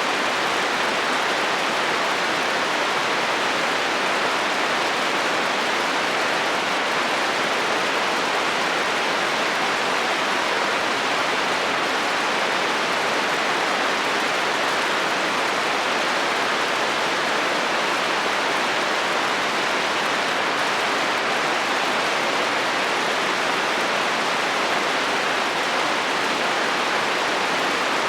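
Heavy rain falling steadily on a metal roof, an even hiss that does not change in level, with no thunder.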